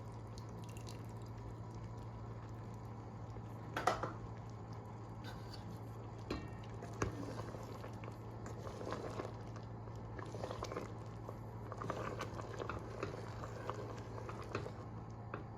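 Small wet squishes and light taps from handling soft food by hand, with a sharp click about four seconds in and busier handling in the second half, over a steady low hum.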